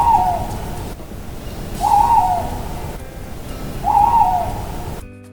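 Owl hooting three times, about two seconds apart, each hoot falling slightly at its end, over a steady background hiss.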